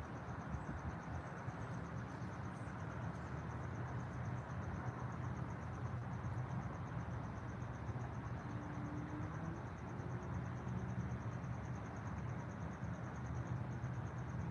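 An insect trilling steadily in rapid, even pulses at a high pitch, over a low steady rumble, with a few faint bird chirps.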